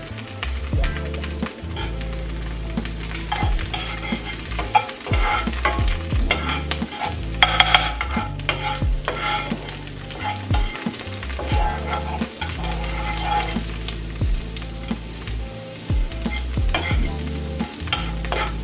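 Garlic and herb butter sizzling in a pot while it is stirred, with scattered clicks and scrapes of the utensil against the pot and a louder scrape about seven and a half seconds in.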